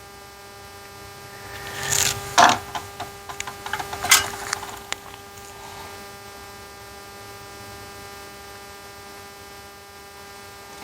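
Foam-tip swab scrubbing flux residue off a circuit board: a few short scratchy strokes and small clicks around two to five seconds in, over a steady electrical hum.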